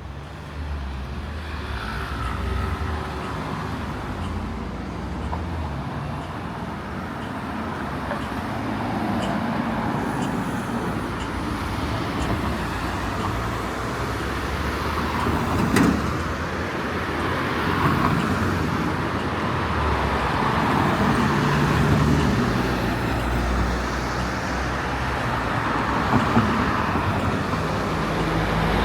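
Steady road traffic: cars passing one after another over a continuous low rumble, each swelling and fading over a few seconds.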